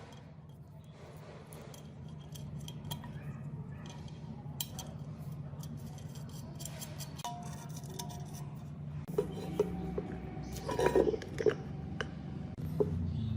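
Light metallic clinks and clicks of small metal parts and hand tools being handled, over a steady low hum. The clinks grow louder and more frequent near the end.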